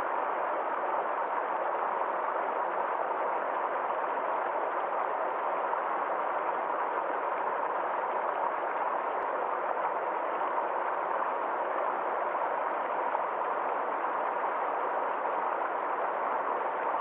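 Small stream flowing: a steady, even rush of water.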